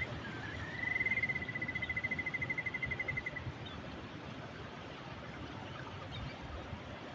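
Steady ocean surf with a bird giving one long, fast trill on a single pitch that rises at its start, starts about a second in and stops about three seconds later; a few faint chirps follow.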